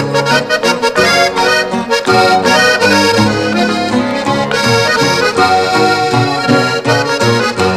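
Norteño music instrumental break: a button accordion plays the melody over a steady, alternating bass rhythm, with no singing.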